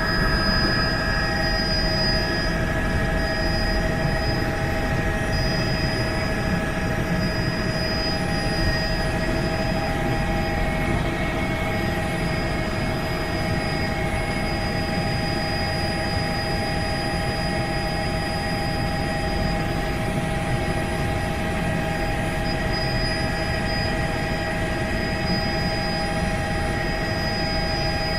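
Helicopter in steady flight: an even rumble of engine and rotor, with several steady whining tones over it that do not change.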